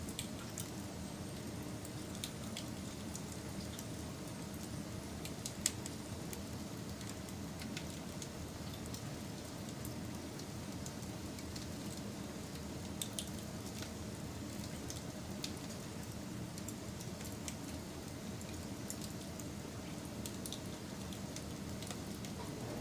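Wood fire burning: a steady low rush with scattered crackles and sharp pops from the burning wood, one louder pop about six seconds in.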